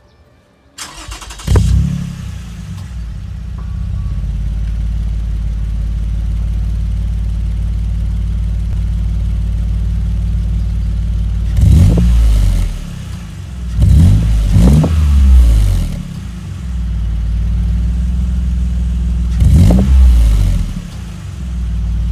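10-series Toyota Alphard with a Trust GReddy aftermarket muffler: the engine cranks and starts about a second in, settles to a steady low idle, then is revved in short blips several times.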